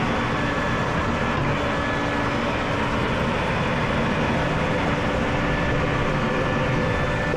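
A machine running steadily: a continuous rumble with a few steady hums on top, unchanging throughout.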